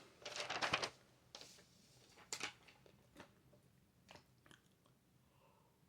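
A short rustle, then scattered faint clicks and taps spaced about a second apart.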